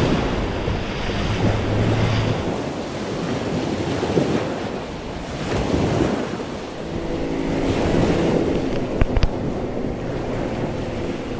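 Gale-force wind buffeting the microphone over waves at sea, with a boat's engine humming steadily at the start and again from about eight seconds in. A few sharp knocks or taps sound near the end.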